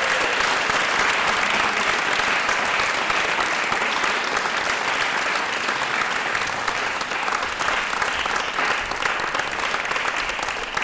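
Audience applauding steadily, thinning into more separate claps near the end.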